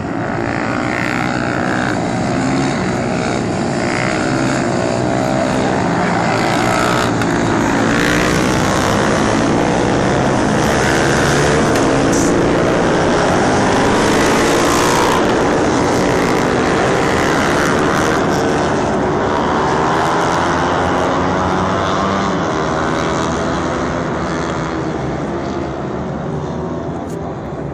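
Motorcycle engine running steadily and loudly, its pitch drifting up and down.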